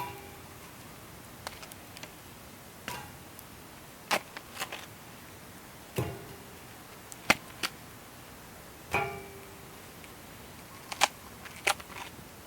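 Wood fire crackling in a fire stand: irregular sharp pops and snaps about once a second over a steady low hiss, a few of the pops followed by a brief ringing tone.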